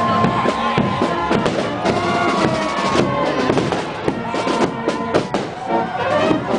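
A marching band playing, with drums, under irregular sharp bangs of firecrackers going off in the street.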